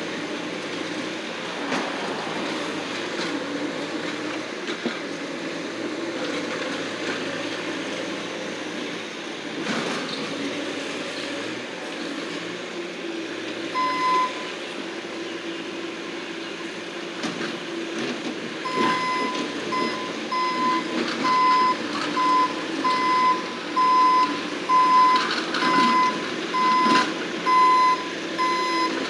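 Bobcat skid-steer loader engine running steadily. Its backup alarm beeps once about halfway through, then beeps repeatedly at about one beep a second through the last third as the machine reverses.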